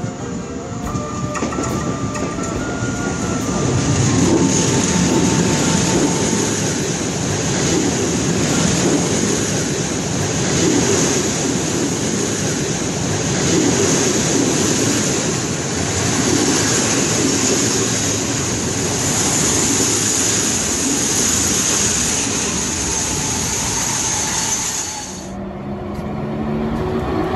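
Passenger coaches behind a PKP electric locomotive rolling past on the rails, the wheel noise swelling every couple of seconds with a clickety-clack. Background music fades out in the first few seconds, and the train sound drops off abruptly near the end.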